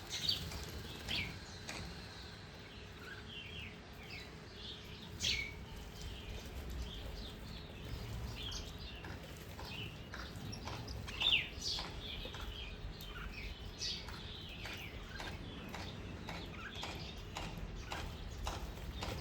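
Small birds chirping over and over in short, sharp, falling chirps, the loudest about five and eleven seconds in.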